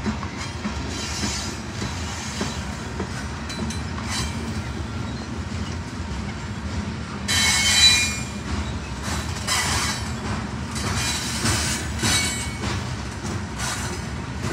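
Covered hopper cars of a grain train rolling past, a steady low rumble and clatter of wheels on rail. Over it, high-pitched wheel squeals come and go, the loudest about seven to eight seconds in.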